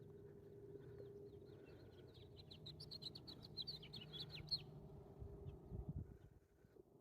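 A songbird singing a quick, rising-in-intensity run of short, down-slurred notes lasting about three seconds. It ends with a few stray notes, over a faint steady low hum.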